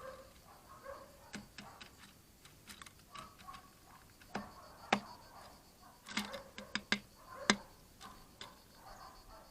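Great spotted woodpecker pecking at wood: a dozen or so sharp, irregular taps, not a drumming roll, with two louder knocks about five and seven and a half seconds in.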